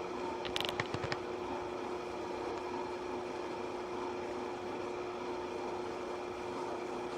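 Pot of water heating on a soda-can alcohol stove, coming up to the boil but not yet at a hard boil: a steady hiss with a faint hum, and a few light ticks about a second in.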